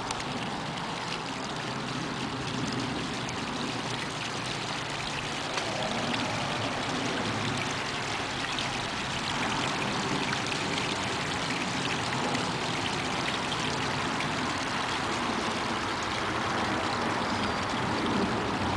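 Small rain-fed waterfall pouring off a saturated hillside: a steady rush and splash of falling water, growing slightly louder over the stretch.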